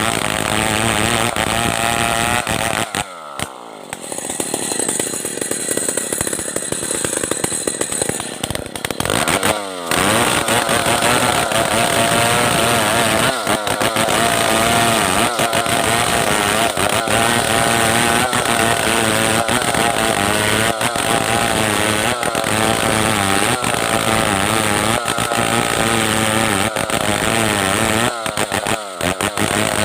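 Stihl 070 two-stroke chainsaw running at high revs while ripping a log into planks. About three seconds in the engine note falls off and drops to a low run, then revs back up near ten seconds and keeps running hard, with a brief dip near the end.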